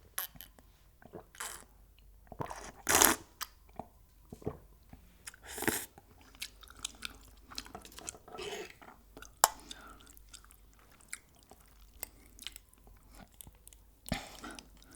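Close-miked chewing and crunching of crispy fried chicken, in irregular bites; the loudest crunches come about three and about six seconds in.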